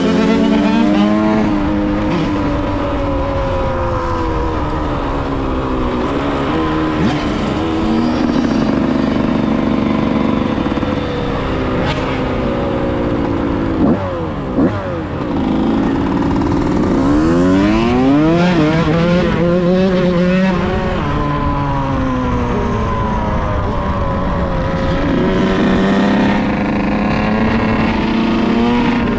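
Yamaha YZ125's single-cylinder two-stroke engine being ridden, its pitch rising and falling again and again as the throttle opens and closes. About halfway it drops off with two short sharp spikes, then climbs in several quick rising sweeps through the gears.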